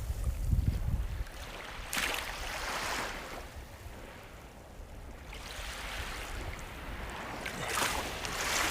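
Sea waves breaking and washing up a shore. One wave breaks with a sudden hiss about two seconds in and recedes, and another surge swells near the end.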